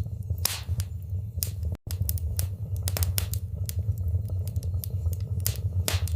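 Fireplace fire crackling, with many sharp pops and snaps over a steady low rumble. The sound cuts out for an instant just before two seconds in.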